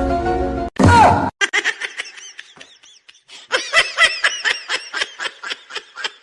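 High-pitched laughter in rapid short bursts, several a second, beginning about a second and a half in. Before it comes a snatch of music, cut off abruptly, then a short loud cry with a falling pitch.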